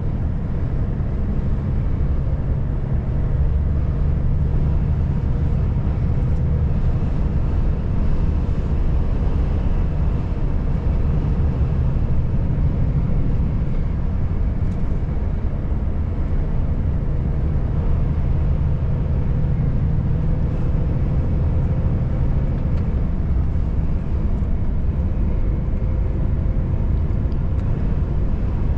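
Volvo FH540 truck's engine and tyres running steadily on the road, a constant low drone with a faint hum above it.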